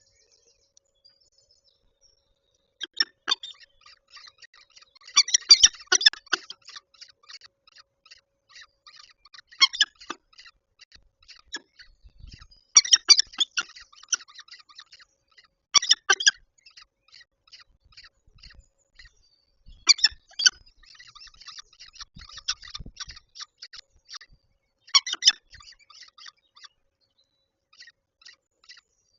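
Peregrine falcon calls: about seven bursts of rapid, high, chattering notes a few seconds apart, with softer scattered calls in between.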